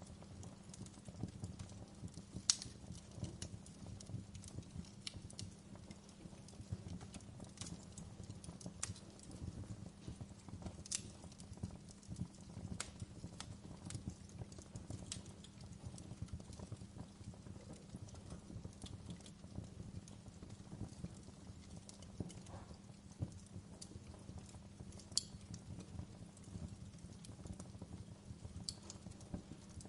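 Fire burning in a fireplace: a low steady rumble with irregular crackles and small pops, and two louder pops, about two seconds in and again about twenty-five seconds in.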